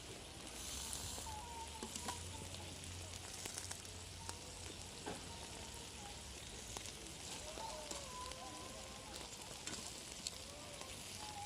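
Food sizzling as it fries on an empty steel can used as a griddle over a small fire: a steady hiss with scattered small crackles and pops.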